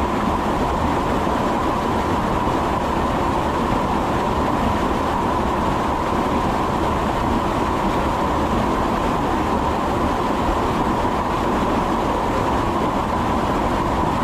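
Steady running noise of a moving vehicle heard from inside, with a constant whine.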